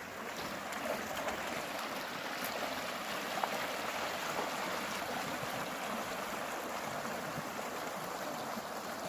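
Water running steadily over rocks in a small stretch of rapids.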